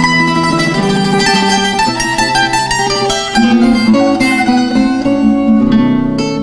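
Instrumental string trio playing a Colombian danza: a plucked melody line over lower plucked chords and bass.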